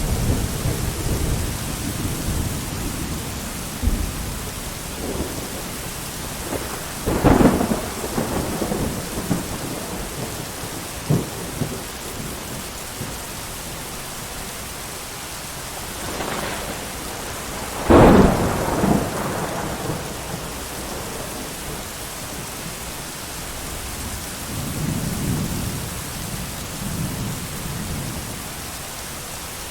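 Heavy rain falling steadily, with thunder: sharp claps about seven and eighteen seconds in, the second the loudest, and low rumbling at the start and again near the end.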